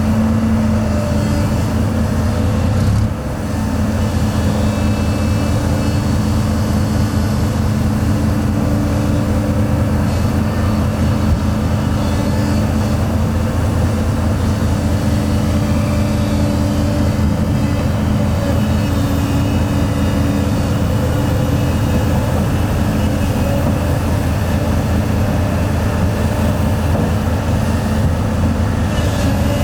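Heavy diesel engine running steadily under load with a continuous low, pulsing rumble, briefly dipping about three seconds in.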